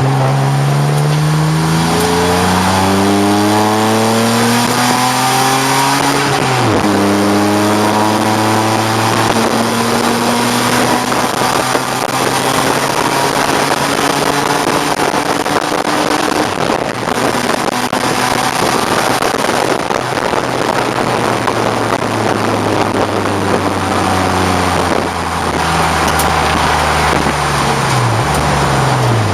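A 1989 BMW 535i race car's straight-six engine under hard acceleration, rising in pitch, then dropping quickly about six and a half seconds in at an upshift and climbing again more slowly. Near the end the pitch falls as the car slows and downshifts, over a steady rush of road and wind noise.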